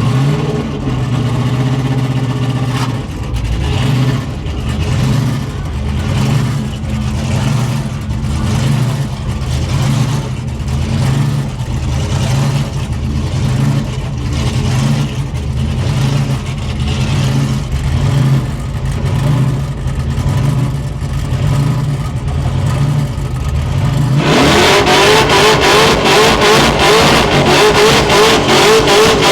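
Supercharged 6-litre LS V8 of a Holden HG wagon burnout car, fitted with an 8-71 blower and mechanical injection, running with a lumpy, pulsing idle. Near the end it is suddenly revved hard and held at high revs with a wavering pitch.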